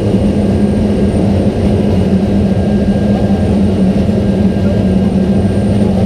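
Pilatus PC-7's Pratt & Whitney PT6A turboprop engine and propeller running steadily, heard inside the cockpit as a loud, even drone with a strong low hum.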